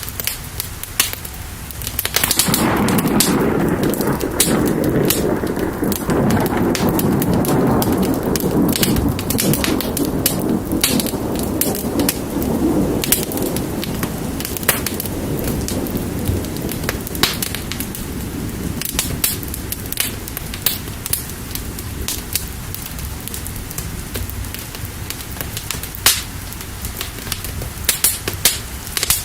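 Steady rain with a wood fire crackling and popping throughout. About two seconds in, a long roll of thunder rumbles up and slowly fades away over the following ten seconds or so.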